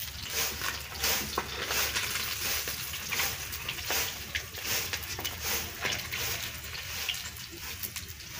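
Fish frying in hot oil in a kadhai: a steady sizzle with many small crackles and pops.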